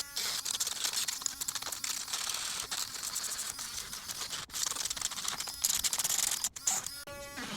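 Miniature rotary tool's sanding head grinding against a dry tree root: an uneven, scratchy rasping with many short catches.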